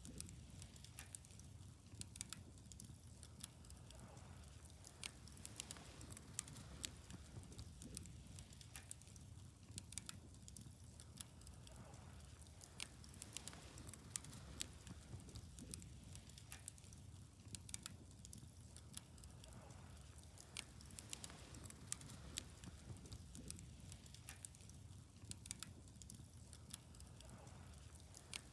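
Faint wood fire crackling, with irregular sharp pops and snaps, several a second, over a steady low background of burning.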